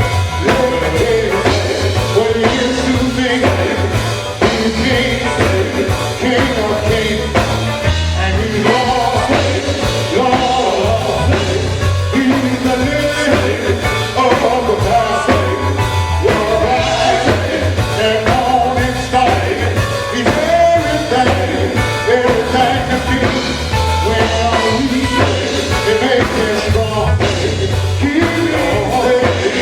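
A gospel group singing with band accompaniment: sung melody over a steady bass line.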